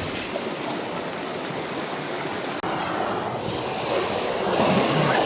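Steady rushing of a Highland waterfall and its stream, a continuous splashing hiss that grows slightly louder in the second half.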